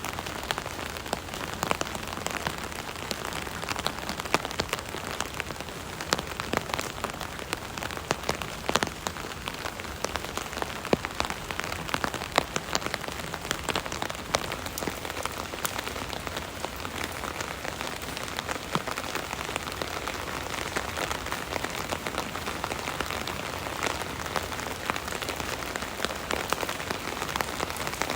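Rain pattering steadily on an umbrella overhead, a constant hiss of rain with many individual drops tapping sharply and unevenly on the canopy.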